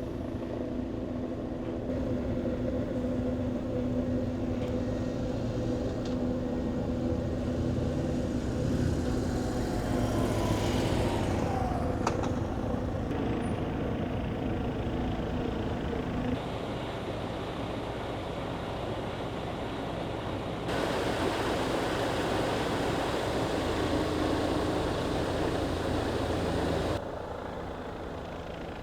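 An engine running steadily, with a low pitched hum; the sound shifts abruptly several times, at about 16, 21 and 27 seconds in.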